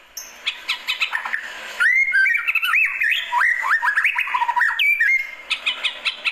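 White-rumped shama (murai batu) singing: a fast, varied run of whistled notes that slide up and down, with short sharp chipping notes near the start and again near the end.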